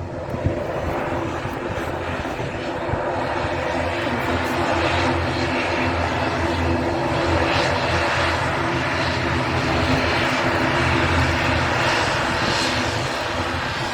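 Aurigny Airlines airliner's engines running as the aircraft passes near the runway. It is a continuous roar with a steady low hum in it, building over the first few seconds and then holding loud.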